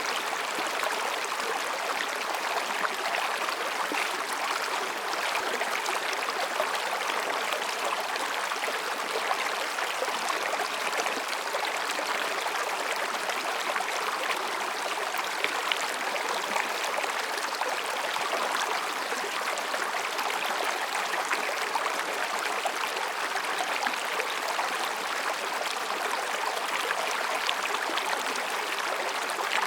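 Mountain stream babbling and rushing between rocks, a steady, even sound of running water.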